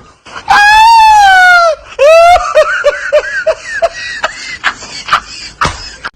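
High-pitched laughing sound: a long falling squeal, a short rising one about two seconds in, then a quick run of short laughing notes, with sharp clicks behind it.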